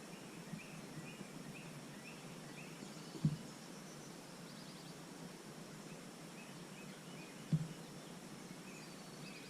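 Birds chirping in the background, a series of short high calls repeated a few times a second, with a brief trill about four and a half seconds in. Two soft knocks stand out, about three seconds in and again near seven and a half seconds.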